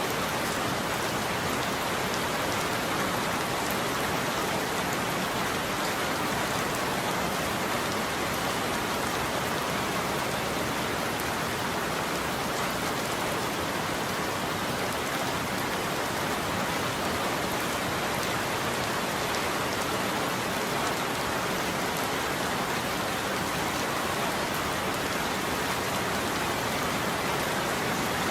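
Steady rain falling on a roof, an even hiss of drops with no thunder.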